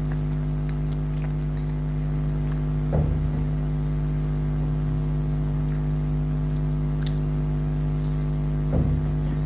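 A steady low hum, like an electrical appliance or motor, runs throughout, with short soft bursts of what may be eating noise about three seconds in and near the end.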